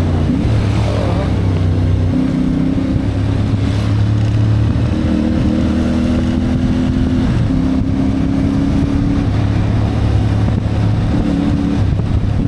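CFMoto 450MT motorcycle's parallel-twin engine running under way, its note shifting up and down in pitch several times as the throttle changes.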